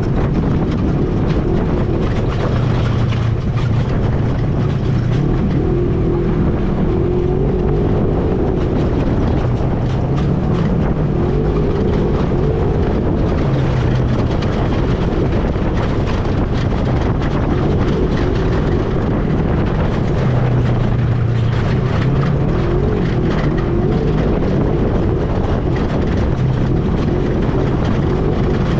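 ATV engine running under way, its pitch rising and falling every few seconds with the throttle, over rough wind and ride noise.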